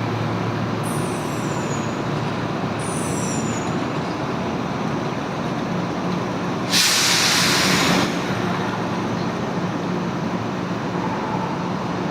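Kintetsu train at a station platform, rumbling steadily. It gives two short high squeals that fall in pitch in the first few seconds, then a loud hiss of compressed air about seven seconds in that lasts about a second.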